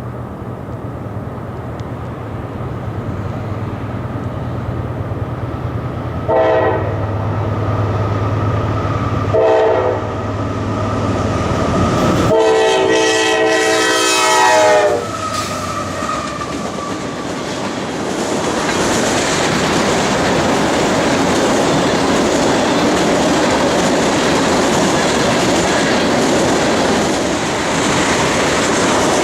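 Approaching diesel locomotive with a low engine hum, sounding its horn three times: two short blasts, then a longer one of about three seconds. The train then passes, its wheels clattering steadily over the rails.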